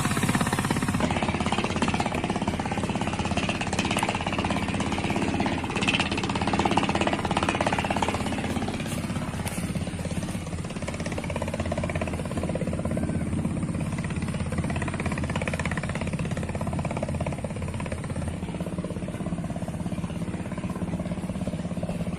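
A handheld power tool running with a rapid, continuous rattling buzz, easing a little in level about ten seconds in.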